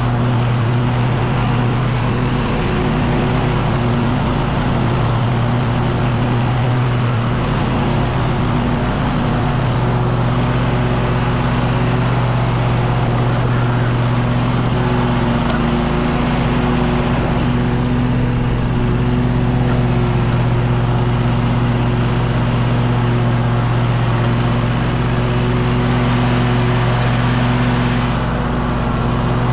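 Echo PB-9010T backpack leaf blower's two-stroke engine running steadily, its pitch holding even throughout.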